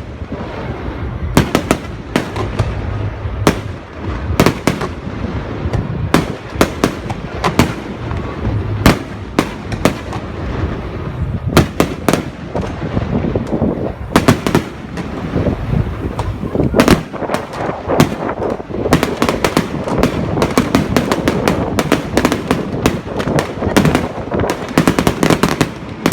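Aerial fireworks going off: a long run of irregular sharp bangs over a continuous rumble, the bangs coming thick and fast over the last several seconds.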